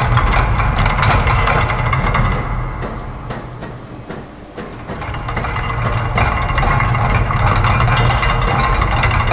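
Layered, looped factory machine sounds: a steady low hum under dense, fast mechanical clicking and clatter from gears, ratchets and presses. It fades down a few seconds in, then builds back up to full.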